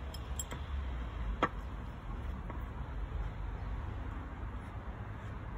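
A single sharp hammer tap on metal about a second and a half in, with a few faint lighter ticks, over a steady low hum.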